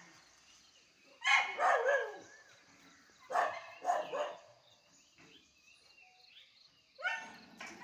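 A dog barking, about seven barks in two quick runs of three and a single bark near the end.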